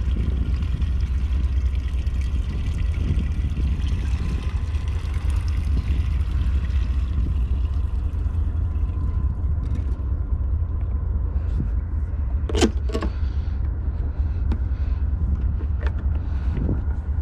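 Gasoline pouring from a gas can into a jet ski's fuel tank, a hiss that tails off about halfway through, over a steady low rumble. A few knocks and a brief squeak follow later.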